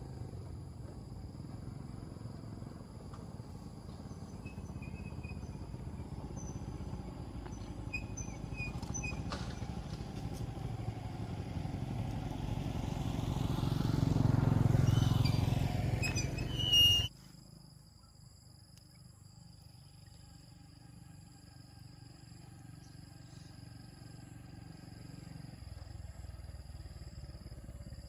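Small motorcycle engine running, growing louder to a peak about halfway through, then cutting off abruptly after a short sharp burst. A quieter low engine hum follows.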